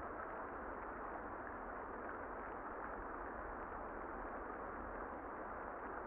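Steady, muffled rain noise with the highs cut away so it sounds dull and distant, over a faint low rumble.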